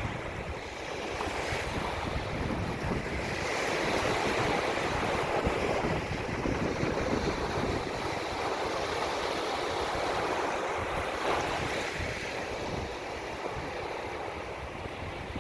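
Ocean surf washing in and out under gusting wind, with wind buffeting the microphone. The surf swells louder a few seconds in and eases off near the end.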